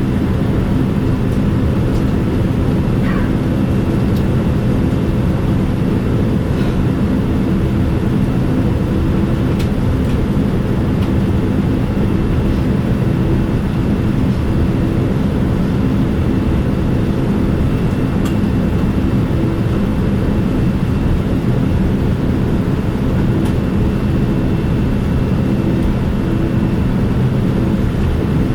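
Steady cabin noise inside a Boeing 787-9 airliner: an unbroken low rumble carrying a few steady low tones, with a faint high whine above it.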